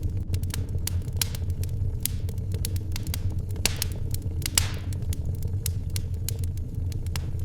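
Wood fire crackling in a fireplace: irregular sharp pops and snaps over a steady low roar, with one louder pop about four and a half seconds in.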